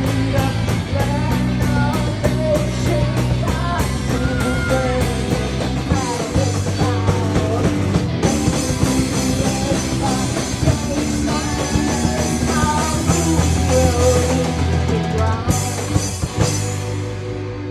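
Live rock band playing loud, with drum kit and a sung vocal line over sustained bass and guitar chords; the drums stop near the end, leaving the chords ringing.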